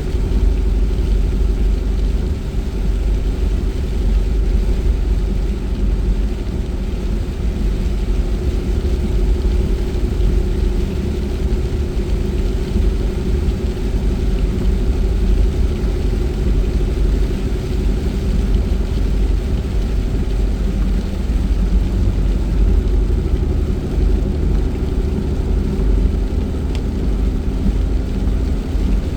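Car driving on a wet road at steady speed: a continuous low engine and tyre rumble with a constant drone, over an even hiss of tyres on wet pavement.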